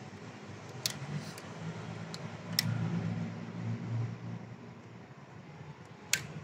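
A few sharp metallic clicks, four in all with the loudest near the end, over a low steady hum that swells for a second or so around the middle.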